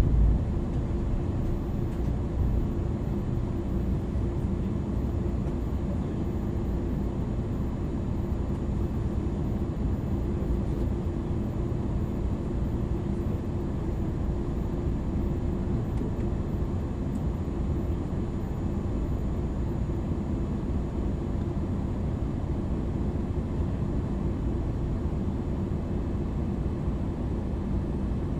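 MAN NL 323 Euro 6 city bus with a ZF EcoLife automatic gearbox driving along steadily. Its diesel engine and the road noise make an even low rumble with a constant hum, with no gear change or stop in between.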